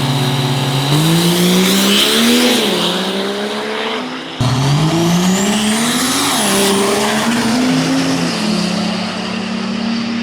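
Diesel race truck engine revving up. Its pitch climbs, dips briefly and climbs again. After an abrupt cut, it runs up once more with a high whine rising alongside, then settles to a steady, higher drone.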